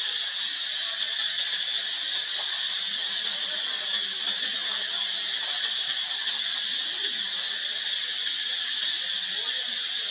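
A steady high-pitched hiss that stays even throughout.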